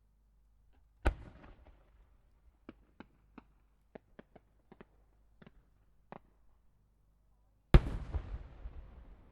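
A 12-inch (shakudama) aerial firework shell. A sharp launch report comes about a second in, then about a dozen short sharp pops while it climbs. Near the end comes the loudest boom, the shell bursting, followed by a long rolling echo.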